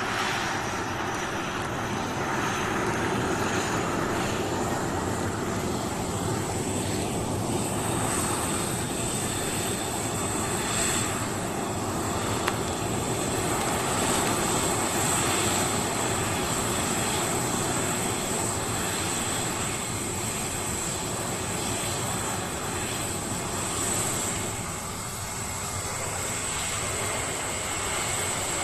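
Concorde's Olympus 593 turbojet engines starting and running up on the ground. A high turbine whine climbs over the first several seconds, then holds steady above a constant jet roar.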